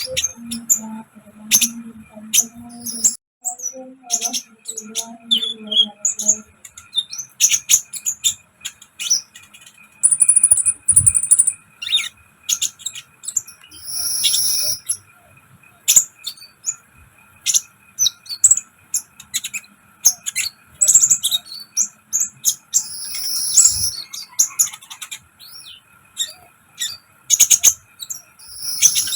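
Songbird lure recording: a dense run of rapid, sharp chirps and high whistled notes, repeated throughout. A low humming call sounds under it for roughly the first six seconds.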